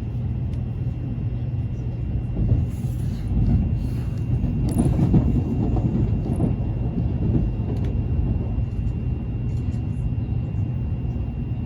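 Steady low rumble of a train running, heard from inside a passenger car, with a faint steady high tone and a few small knocks.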